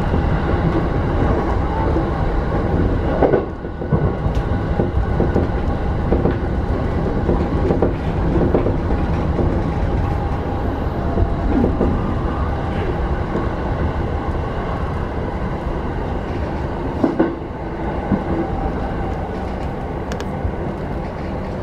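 Interior running noise of a Keihin-Tohoku Line E233-series electric commuter train: a steady rumble of wheels on rail with a few brief knocks from the track, easing as the train slows into a station platform.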